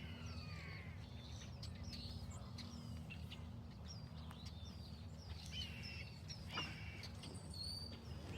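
Several birds chirping and calling in short, falling notes over a steady low hum, with one louder call about two-thirds of the way through.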